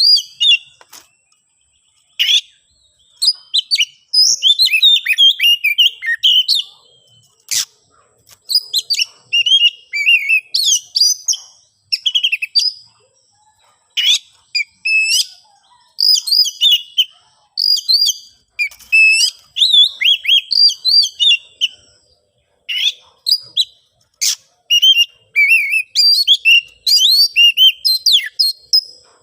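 Oriental magpie-robin singing in bursts of rapid, varied whistled phrases mixed with sharp clicking notes, with short pauses between the bursts. This is the agitated, fight-ready song of a male challenging a rival.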